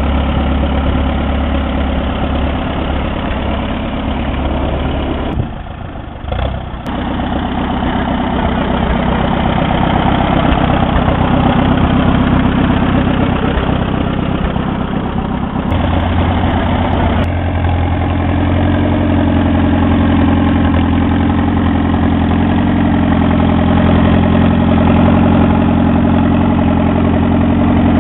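A 1951 Allis-Chalmers B tractor's four-cylinder gasoline engine running steadily. It dips briefly about six seconds in, and its low note changes about sixteen seconds in.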